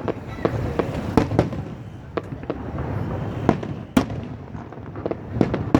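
Fireworks display seen from a distance: a stream of sharp bangs and pops, irregular and several a second at times, over a continuous rumble of shells bursting and echoing.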